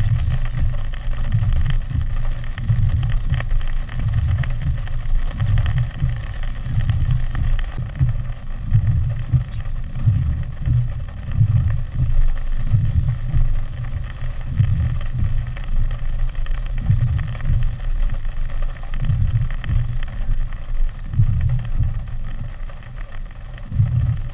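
Hurricane wind buffeting the microphone in uneven gusts, over a steady hiss of heavy rain.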